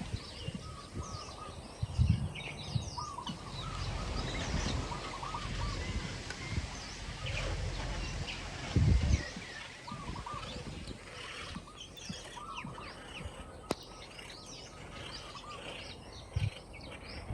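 Birds chirping with many short, repeated calls, and a few dull low thuds: one about two seconds in, a stronger one around the middle and a smaller one near the end.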